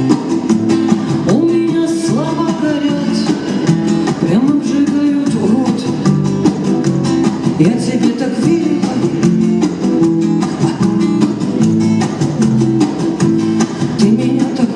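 Music led by an acoustic guitar strummed in fast, even strokes in a flamenco-like style.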